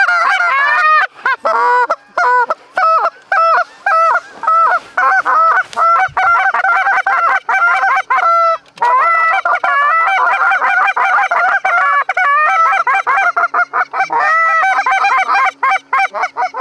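A flock of Canada geese honking, many calls overlapping almost without a break, with brief lulls near the start and about halfway.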